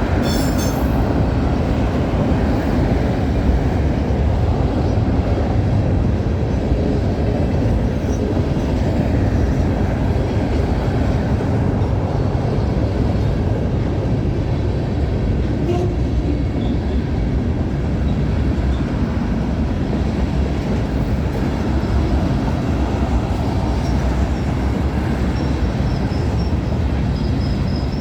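Freight cars of a CN mixed freight train rolling past close by: a steady, continuous rumble of steel wheels on rail. A faint high squeal rises from the wheels near the end.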